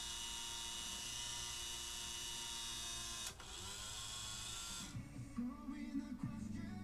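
Small electric tuning motor of a 1955 Thunderbird Town and Country signal-seeking radio running as it drives the dial down the band, with a steady hiss and whine that cuts off suddenly about three seconds in. Near the end the radio's audio comes in.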